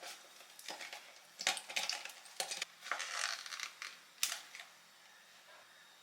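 A cluster of short crinkling, rustling and light clicking noises, like small objects or packaging being handled, between about one and four and a half seconds in.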